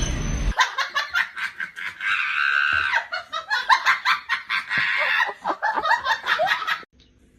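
High-pitched laughter in quick repeated bursts, which cuts off suddenly near the end. The tail of a music track is heard briefly at the very start.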